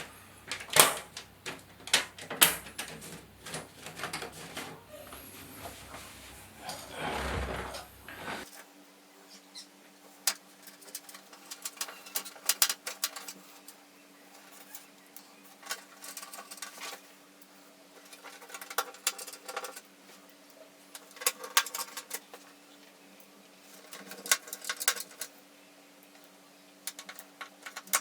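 Irregular light clicks and knocks of hard parts being handled, with a low background rumble that cuts off abruptly about a third of the way in.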